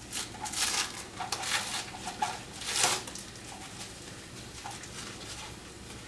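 Adhesive tape being pulled off its roll in several short rasping strokes during the first three seconds, followed by faint handling sounds.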